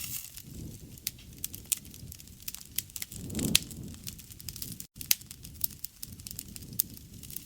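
Wood fire crackling, with many sharp pops over a low rumble of the flames. The rumble swells about halfway through.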